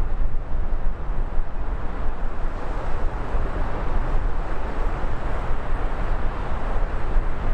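Wind buffeting the microphone: a loud, gusting rumble that rises and falls unevenly.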